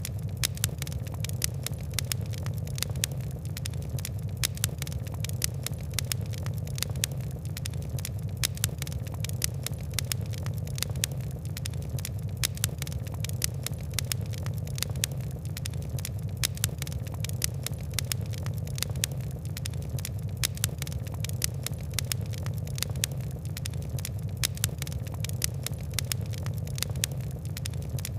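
Wood-and-coal fire crackling: a steady low rumble of flames under a dense run of sharp ticks and pops, several a second.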